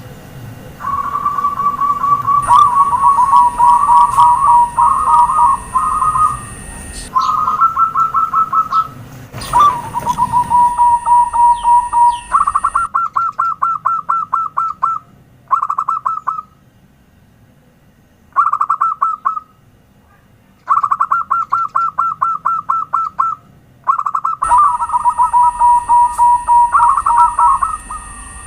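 Zebra doves singing their cooing song: phrases of quick staccato notes with short pauses between them, two voices at slightly different pitches overlapping at times.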